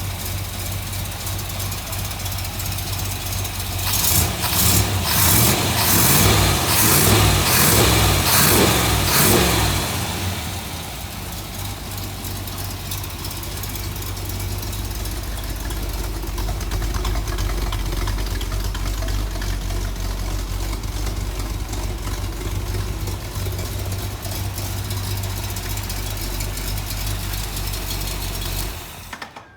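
Jasper 350 cubic-inch crate V8 in a 1964 Corvette chassis, running at idle, then revved several times in quick succession for about six seconds before dropping back to a steady idle. The sound cuts off suddenly near the end.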